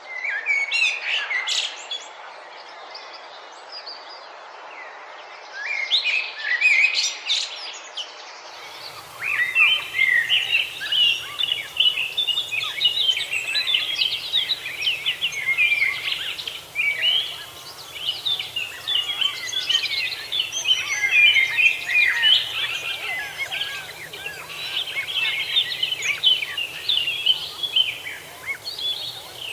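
Songbirds singing outdoors: at first two short bursts of song with a pause between them, then, about a third of the way in, a continuous, busy stream of chirping song.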